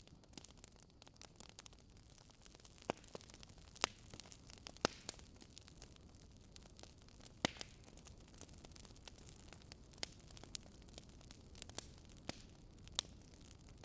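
Wood fire crackling in a fireplace: scattered sharp pops every second or two over a faint, steady hiss.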